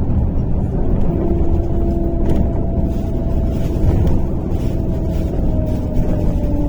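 Running noise of a MAZ-103.485 city bus heard from inside the passenger cabin: a steady engine and road rumble. About a second in, a thin whine rises above it and slowly drops in pitch.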